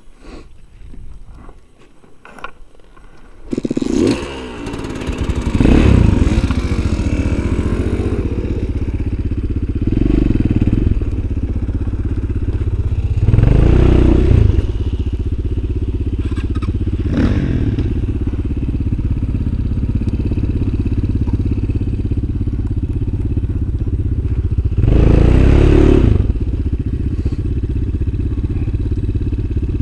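Off-road motorcycle engine that comes in suddenly a few seconds in and then runs, revving up in several surges as the bike is ridden.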